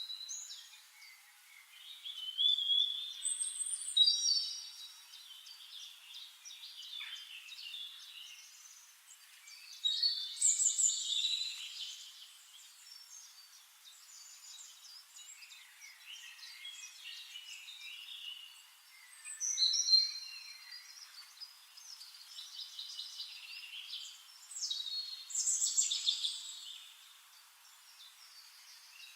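Birdsong: several birds chirping, whistling and trilling, with louder spells of song every several seconds.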